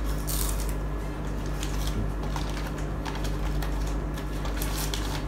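Chewing a crisp roasted seaweed sheet snack: irregular small crunches and clicks, with a plastic snack packet handled near the end, over a steady low hum.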